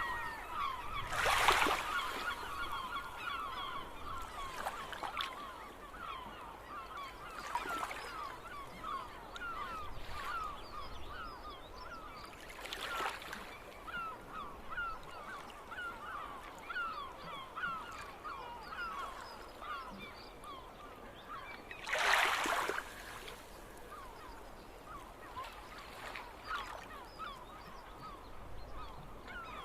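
A flock of gulls calling over one another in many short repeated calls, with a few louder calls standing out about a second in, near the middle and about two-thirds of the way through.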